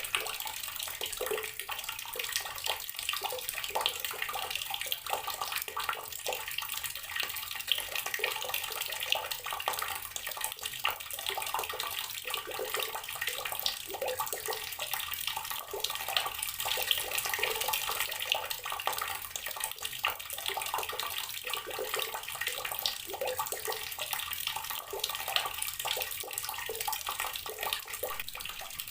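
Outdoor water tap running steadily, a stream of water splashing with a continuous patter.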